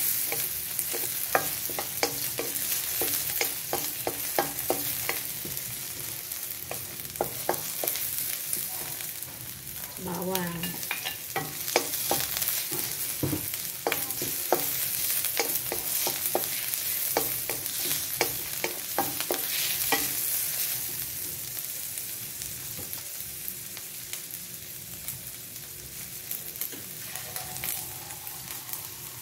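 Sliced onions sizzling in hot oil in a metal wok, while a wooden spatula stirs and scrapes against the pan with frequent clicks. The stirring stops about three quarters of the way through, leaving the steady sizzle.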